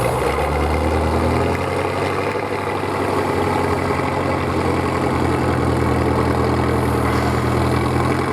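Heavy truck engine running steadily at a low, even pitch, its deep note shifting slightly about a second in.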